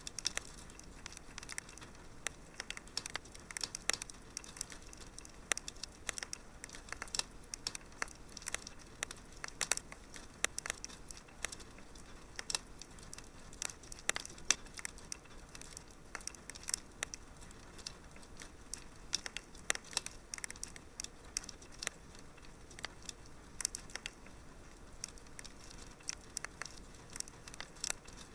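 Wood fire crackling in a fireplace: irregular sharp pops and snaps, some louder than others, over a soft steady hiss.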